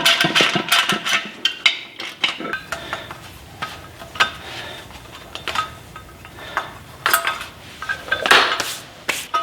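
Metal tools and parts clinking and knocking, with short ringing notes, as a wheel hub is worked apart from a Ferrari F430's rear wheel bearing. The clinks come in clusters: several near the start, a few around the middle, and more near the end.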